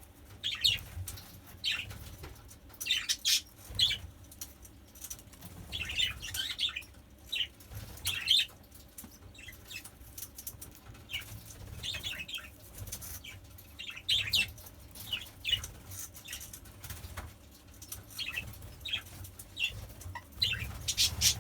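Budgerigars chirping: many short, separate high chirps at irregular intervals, over a low rumble.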